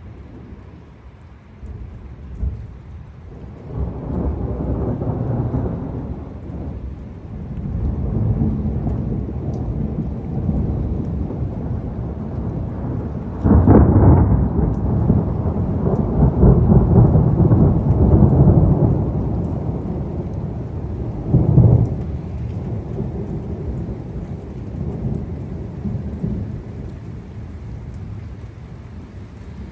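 Thunder rolling for over twenty seconds in a rainstorm, with rain falling throughout. The rumble builds from about two seconds in and peaks in a sharp, loud clap about halfway through. A second crack follows some eight seconds later before the rumble dies away.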